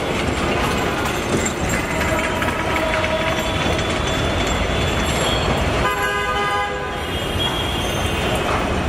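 Passenger train coaches rolling past with a steady rumble of wheels on the rails. A horn sounds once, for under a second, about six seconds in.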